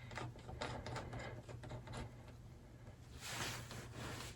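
Faint clicks and rustling of parts being handled by hand, over a steady low hum, with a short hiss about three seconds in.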